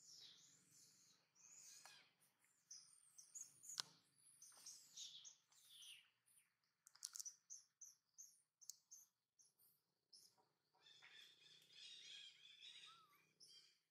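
Faint bird chirps and calls: many short, high chirps scattered throughout, busier for a couple of seconds near the end, with one sharp click about four seconds in.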